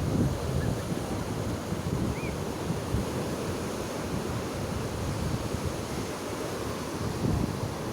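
Surf washing onto a sandy beach in a steady rush, with wind buffeting the microphone in gusts.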